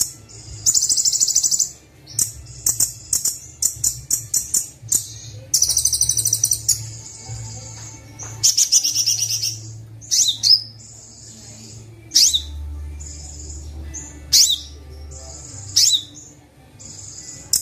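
Kolibri Wulung sunbird song played as a training (masteran) recording: high-pitched phrases of rapid buzzy trills alternating with sharp, downward-sweeping chips, over a steady low hum.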